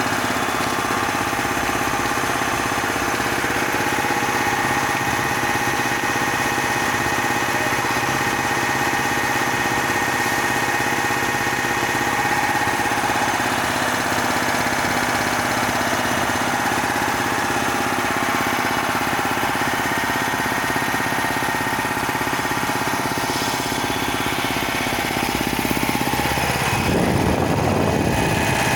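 Bauer high-pressure (330 bar) breathing-air compressor running steadily with a constant mechanical hum. Near the end a rougher, noisier low rumble joins in.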